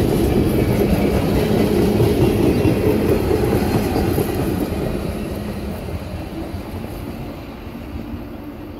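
Excursion train's cars rolling past on steel rails with a dense rumble and rattle, getting steadily quieter as the train moves away.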